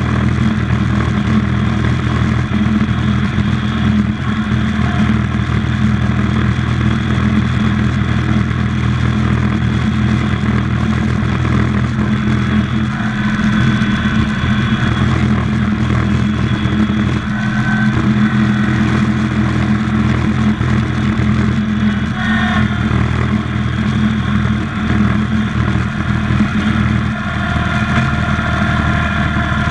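International Harvester Cub Cadet 147 garden tractor engine running steadily through a long stretch, with its speed changing little. Fainter higher whines come and go over it in the second half.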